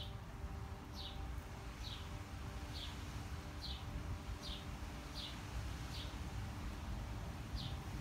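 A small songbird repeating a short, high, downslurred chirp about once a second, with a brief gap near the end, over a steady low rumble.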